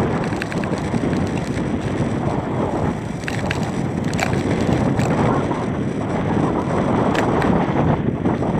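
Wind buffeting the microphone of a moving bicycle rider: a steady rushing noise, with a few short clicks.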